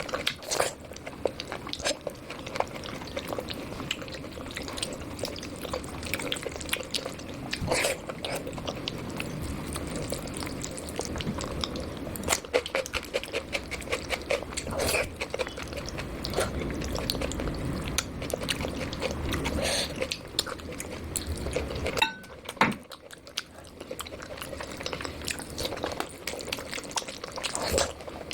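A person chewing soft, wet khichdi close to the microphone, with mouth sounds and many short clicks.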